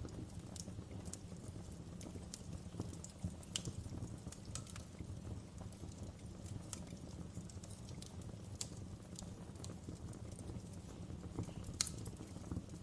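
Wood fire crackling in a fireplace: irregular sharp pops and snaps over a steady low rumble of the flames, with one louder pop near the end.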